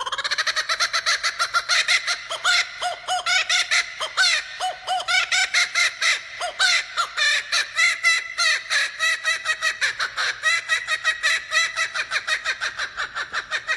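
A bird calling in a long, rapid run of short, harsh pitched notes, several a second.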